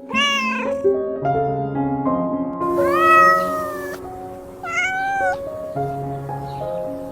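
A cat meowing three times, the middle meow the longest, over soft background piano music.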